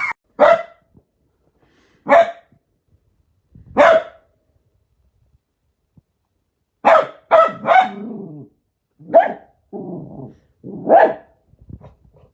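A dog barking: single barks about two seconds apart, then a quick run of three barks about seven seconds in, with low growling between the later barks.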